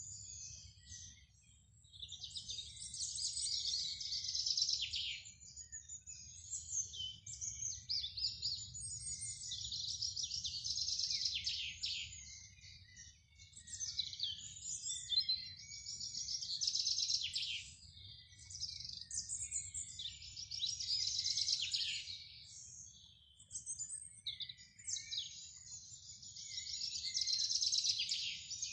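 Garden songbirds singing in long, high-pitched warbling phrases of rapid notes, each phrase lasting a few seconds with short pauses between them.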